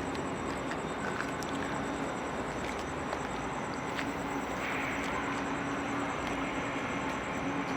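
Intermodal freight train running by: a steady rumble of wheels and locomotive with a low, even hum underneath.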